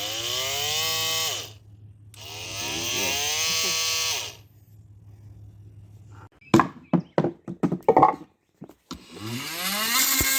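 Ryobi One+ cordless oscillating multi-tool run in three short bursts, each time the motor's whine rising quickly in pitch, holding steady and winding down. A quick series of sharp knocks comes between the second and third runs.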